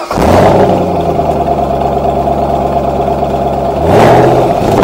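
Car engine revved, then running steadily, and revved again about four seconds in.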